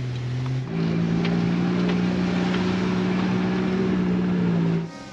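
Jeep engine droning steadily as it climbs the rough trail, heard from inside the cab. About a second in the drone steps up to a higher, louder pitch, and it cuts off near the end.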